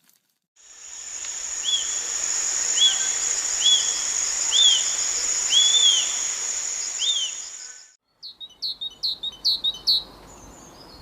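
Birds calling over a steady high-pitched chorus: six short arching whistles about a second apart. Then, after a sudden cut, a quick run of about six short falling chirps.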